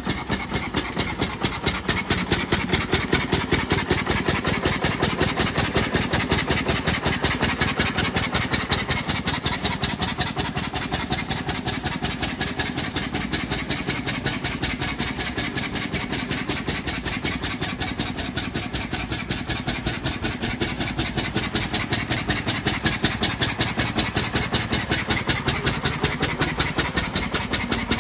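Veteran Rambler car's engine running with a fast, even beat as the car drives off and comes back. The sound is somewhat fainter in the middle and grows louder again near the end.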